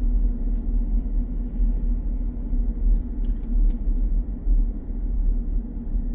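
Steady low rumble of a car being driven, road and engine noise heard from inside the car, with a few faint ticks.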